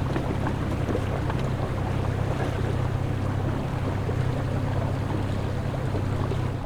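Motorboat running over open water: a steady low engine drone with wind buffeting the microphone and water noise.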